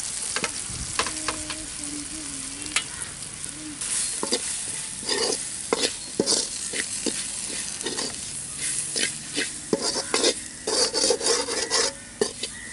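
Onion-tomato masala with freshly added chilli, turmeric and coriander powders sizzling in a metal kadai. A slotted steel spatula stirs and scrapes against the pan in short repeated strokes, more often in the second half.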